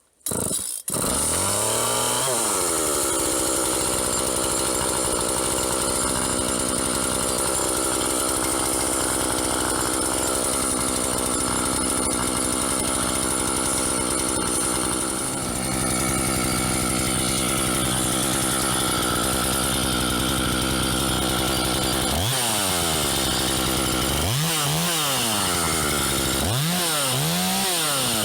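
Two-stroke chainsaw starting on the pull about a second in after a cold-start routine with choke, primer and decompressor. Its speed settles within a second or so and it idles steadily. Near the end the throttle is blipped several times, the engine revving up and dropping back each time.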